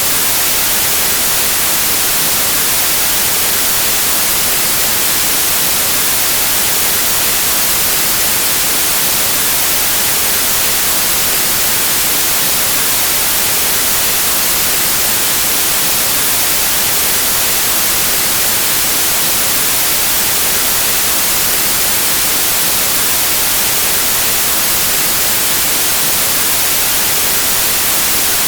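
Steady, loud white noise: an even hiss of static with no changes, brightest in the high end.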